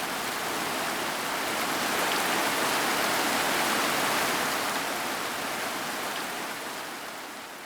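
Heavy, steady rain: a dense hiss that swells slightly and then fades out near the end.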